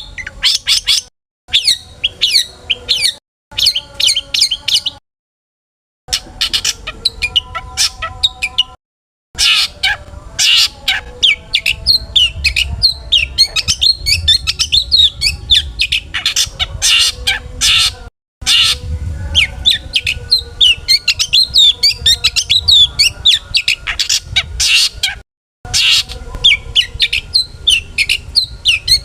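Long-tailed shrike (cendet) singing a fast, varied stream of sharp chirps and harsher squawk-like notes, the 'full isian' song packed with mimicked calls of other birds. The song stops dead several times where the recording is cut and spliced.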